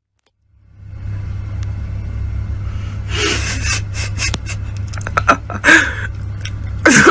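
A steady low vehicle-engine rumble, with several loud bursts of noise and sharp knocks over it.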